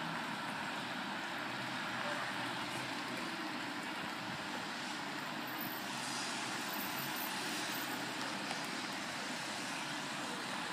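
Distant diesel passenger train approaching slowly, heard as a steady low rumble under an even hiss.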